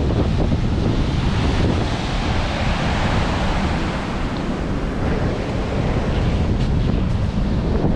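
Strong wind buffeting the microphone over the steady wash of sea surf breaking on the shore.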